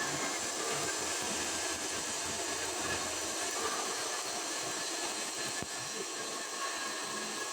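Stick (SMAW) welding arc burning on a carbon steel pipe: a steady, even hiss.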